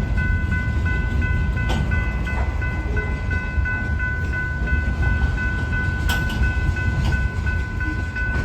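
Freight train cars rolling past: a heavy low rumble with a few sharp clacks from the wheels, under a steady high-pitched ringing tone.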